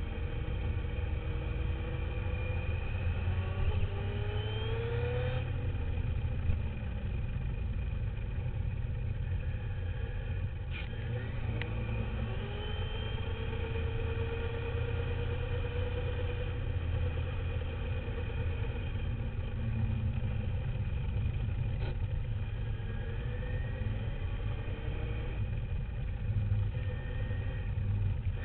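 Radio-controlled dirt bike heard from its on-board camera: the motor whine climbs and falls in pitch as the throttle is worked, dropping off sharply about five seconds in, over a heavy steady rumble from vibration and wind on the camera.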